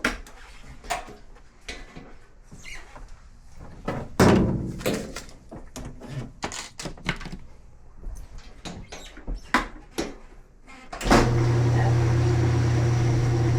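Knocks and clatter of a top-load washer's cabinet and parts being handled, with one heavy thump about four seconds in. Near the end a steady electric hum starts suddenly and runs for about three seconds.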